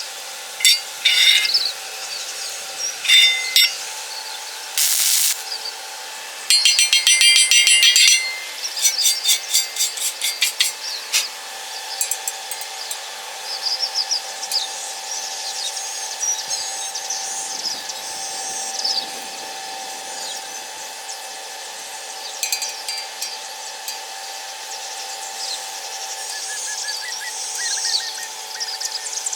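Metalworking noise: short bursts of hissing crackle, the longest about a second and a half, then scattered clicks and ticks over a faint steady hum.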